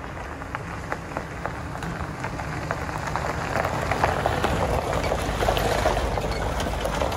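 Rain falling, with many small drops ticking on a hard surface over a low steady rumble, getting louder as it goes.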